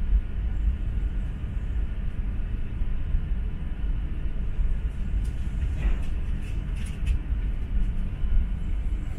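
Low, steady rumble inside an E4 series MAX Toki double-decker Shinkansen car as it pulls out of the station and gathers speed, with a handful of clicks about five to seven seconds in.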